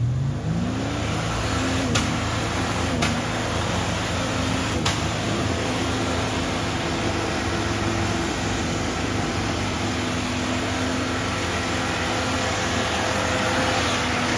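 Off-road 4x4 engine revved up and held at high revs, a steady drone over a rushing noise, with a few sharp clicks along the way; the revs start to drop near the end.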